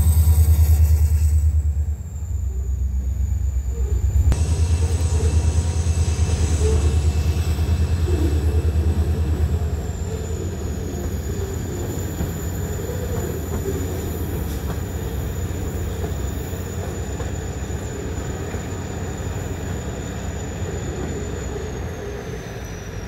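Reading & Northern freight train rolling past: heavy low rumble that is strongest in the first couple of seconds as the diesel locomotive pulls away, then the steady rumble of covered hopper cars on the rails, slowly fading as the train recedes. A thin steady high whine runs over it.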